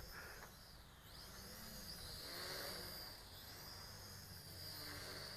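Faint whine of the MJX X500 quadcopter's motors and propellers in flight some way off, its pitch rising and falling as the throttle changes.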